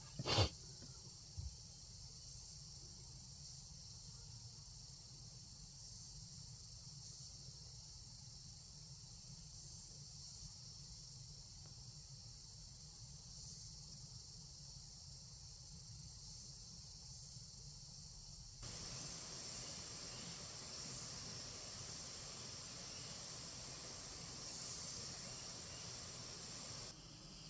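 A faint, steady high-pitched chirring hiss of insects, cricket-like, with a couple of short knocks in the first second or so. About two-thirds in, the hiss suddenly grows louder and fuller.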